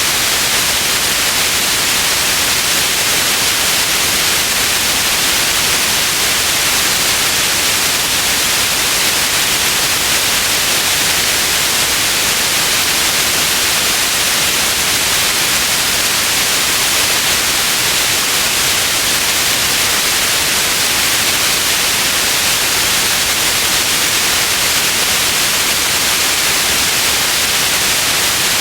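Steady white noise: an even, unchanging hiss, brightest in the upper treble.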